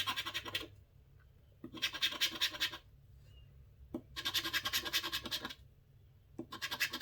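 A scratch-off lottery ticket being scratched in quick runs of rapid strokes, four bursts with short pauses between them.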